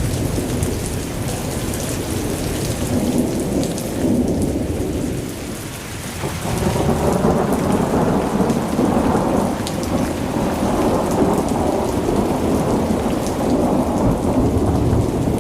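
Rain falling steadily with rolling thunder. The rumble dips briefly, then swells louder about six seconds in and keeps going.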